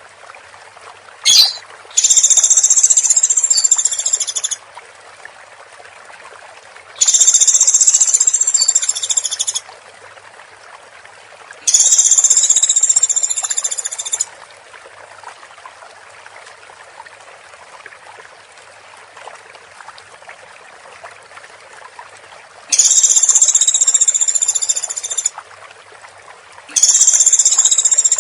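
Woodpecker calling in rapid, dense rattling bursts of about two and a half seconds each, five times, high-pitched, over a steady hiss. A short sharp sound comes just before the first burst.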